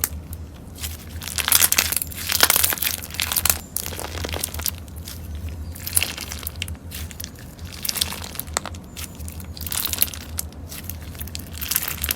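Slime being squished and pressed by hand: a dense run of crackles and small pops, heaviest between about 1.5 and 3.5 seconds in.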